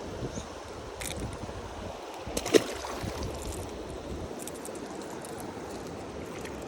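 Creek water running steadily, with one short sharp knock or splash about two and a half seconds in.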